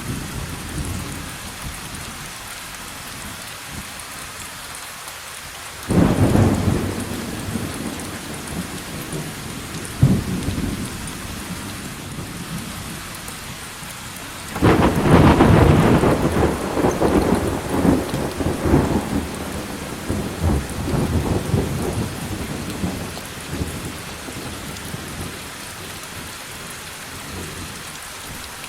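Rain falling steadily through a thunderstorm. A sudden thunderclap comes about six seconds in and a sharp crack about ten seconds in. About halfway through, the loudest thunder starts: a long, rolling peal that fades out over several seconds.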